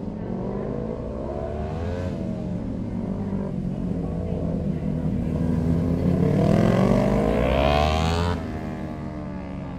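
Kawasaki motorcycle engine being ridden and accelerated, its pitch climbing over several seconds. The pitch and level drop suddenly about eight seconds in, and the engine runs on lower.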